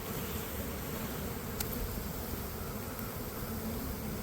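A honeybee swarm buzzing in a steady, unbroken hum at close range.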